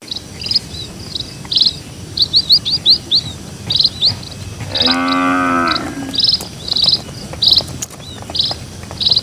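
Small birds chirping in quick, repeated short notes throughout, with a cow mooing once for about a second near the middle.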